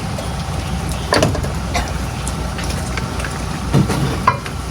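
Diesel truck engine running steadily at idle, with a few short knocks about a second in and near the end.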